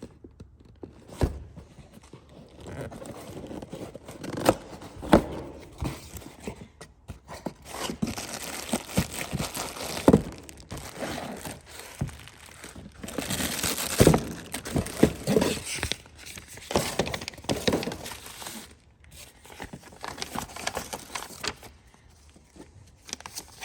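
Packaging being handled and unwrapped: irregular crinkling and tearing with scattered knocks and clicks as a new vacuum pump is taken out of its box.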